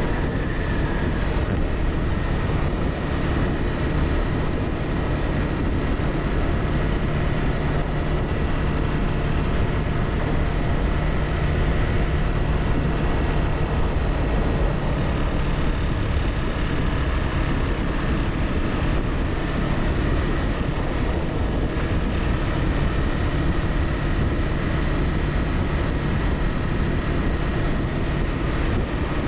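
Honda CBR300R's single-cylinder engine running steadily while riding, under a haze of wind and road noise, with no big revs or gear changes.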